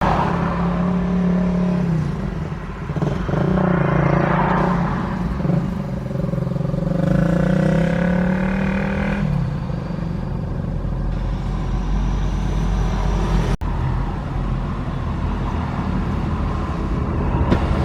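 Truck engine running, its pitch shifting up and down over the first several seconds and then settling into a steadier low rumble. The sound breaks off for an instant about 13 seconds in.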